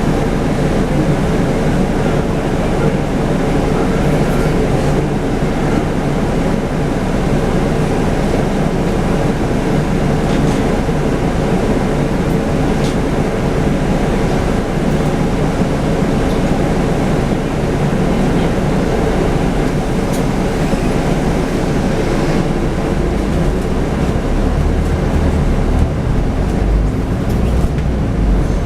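Scania N250UD double-decker bus with its five-cylinder diesel engine running steadily with road noise. The deep engine drone strengthens near the end.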